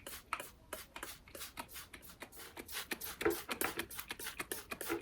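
Hand-pumped trigger spray bottle misting water over freshly sown seeds in a seed tray, squirted in quick repeated pumps, several short hisses a second.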